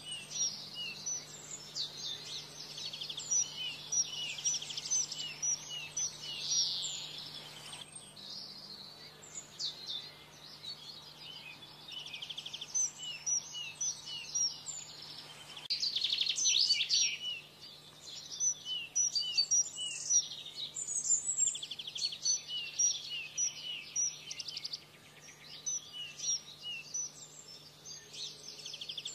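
Canaries singing: fast trills and strings of repeated chirps running on without a break, over a faint steady low hum.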